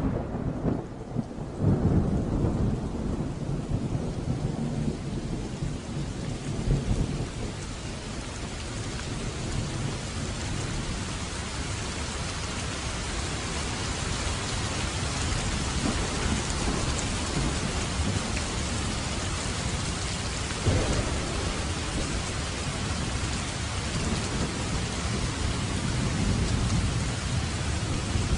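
Thunderstorm: low rolling thunder rumbles through the first several seconds while a steady hiss of heavy rain builds and takes over. Another short rumble of thunder comes about three-quarters of the way in.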